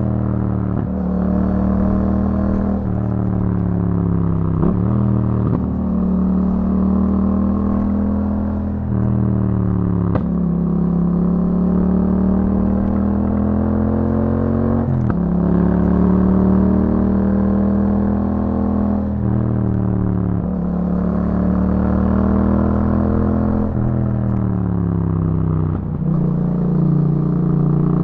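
Yamaha MT-07's parallel-twin engine through an aftermarket Akrapovic exhaust, under way. The engine note rises through the revs and drops back again and again, every few seconds, as the throttle is opened and closed.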